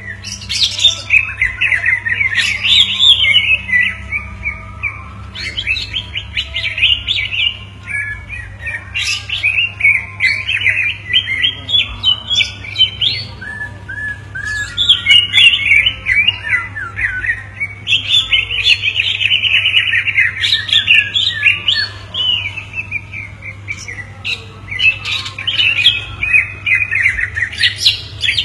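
Two cucak ijo (green leafbirds) singing back and forth in long, rapid, chattering phrases with short pauses between them. A steady low hum runs underneath.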